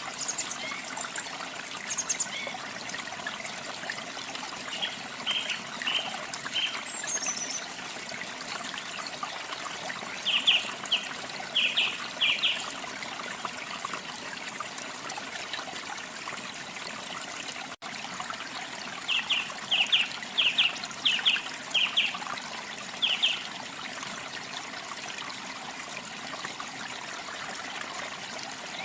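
Steady rush of running water, with a small songbird's short chirps in several separate runs of quick repeated notes.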